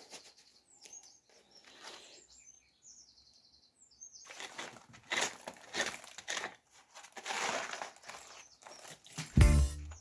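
Small birds chirping in short high calls, then a run of rough scraping strokes about a second apart from hand tools working mortar around the stone. Music with a heavy bass beat comes in just before the end.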